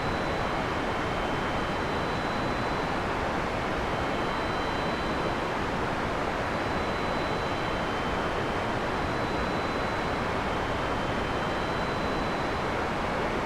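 Heavy rain falling steadily in a forest: a constant, even hiss with no thunderclaps, and faint thin high tones drifting in and out behind it.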